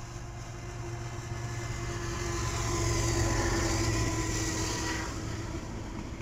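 Diesel freight locomotives passing close by, engines running and wheels rolling on the rails. The sound grows louder to a peak about three seconds in as the locomotives go by, then eases as the freight cars follow.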